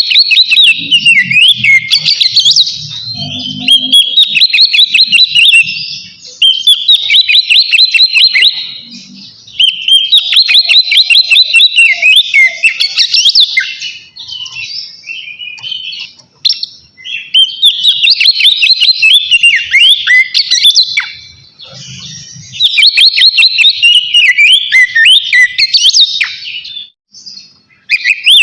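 Oriental magpie-robin singing loudly in full song: a run of rapid whistled phrases and trills, each a few seconds long with short pauses between.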